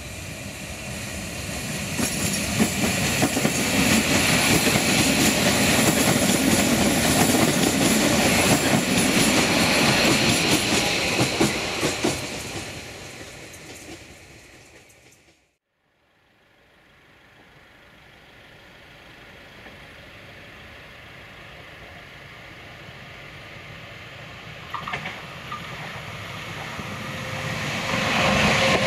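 Electric multiple-unit passenger train passing close by, growing loud and then fading away as it goes. After an abrupt cut, a second electric train approaches, getting steadily louder until it passes near the end.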